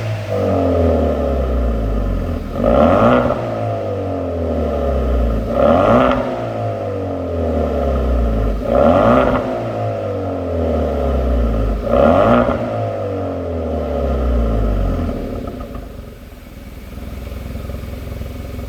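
Hyundai Veloster 1.6 Turbo's four-cylinder turbo engine through a custom variable-valve exhaust muffler, blipped about every three seconds, five times, with the pitch falling back after each rev. It then settles to a steady idle near the end.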